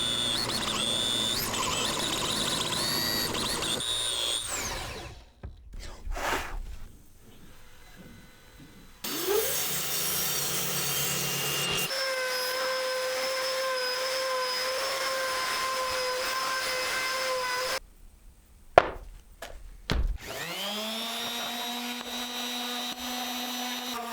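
Woodworking power tools running in a series of short, cut-together clips. Their steady motor hums change pitch from clip to clip, with a few knocks in between, and one tool spins up about 20 seconds in and then runs at a steady pitch.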